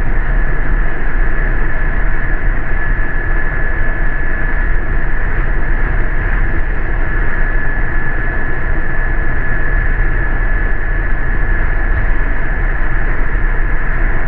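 Steady cabin noise of a city transit bus running: low engine and road rumble with a constant high whine over it.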